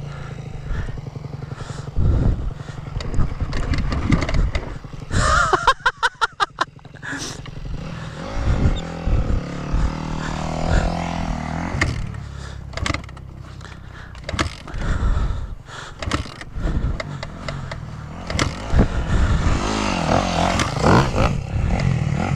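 Honda CRF250 dirt bike's four-stroke single being bump-started in gear on a hill: the engine turns over and fires in a quick run of pops about five to seven seconds in. Clattering and scraping from the bike run throughout.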